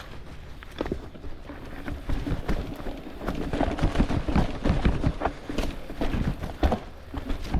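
Sliding fast downhill over rough, choppy snow: edges scraping and chattering with a dense run of uneven knocks that grows louder and busier about two seconds in.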